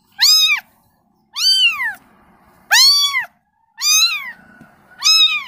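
Kitten meowing repeatedly to call its mother: five high-pitched meows, about one every second and a quarter, each rising and then falling in pitch.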